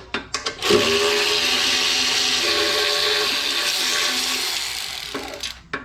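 A hand-held power tool, most likely used to unbolt the wood chipper's wheels, runs for about four and a half seconds with a hissing rush over a steady motor tone. It starts less than a second in and tails off near the end, with a few short clicks before and after it.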